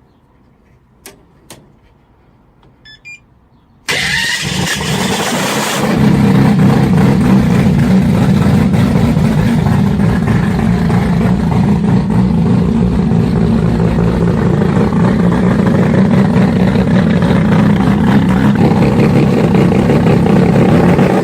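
A few faint clicks, then about four seconds in an engine starts abruptly and runs loudly, getting louder again a couple of seconds later and holding a steady low running note.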